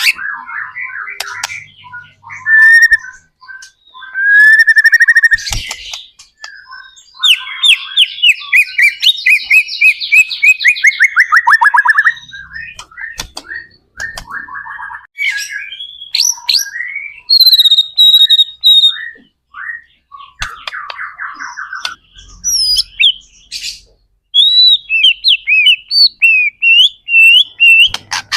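White-rumped shama (murai batu) in full song: a long, varied sequence of loud phrases, including a fast trill of rapidly repeated notes falling in pitch, clear high whistles, and quick rising-and-falling whistled notes, with short pauses between phrases.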